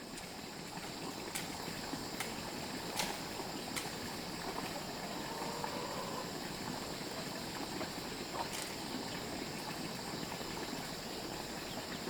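Outdoor rural ambience: a steady high-pitched insect drone, with a few faint light clicks or knocks scattered through it.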